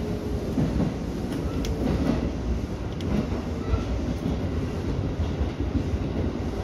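Tobu Urban Park Line electric express train running at speed, heard from inside the cab. There is a steady low rumble of the wheels on the rails, with a few faint clicks.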